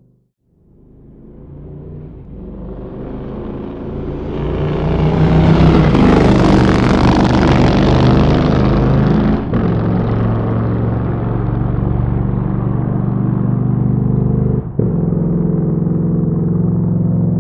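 Motorcycle engine rising out of silence to a loud, steady run, loudest about six seconds in, with two brief drops in level, one about halfway through and one near the end.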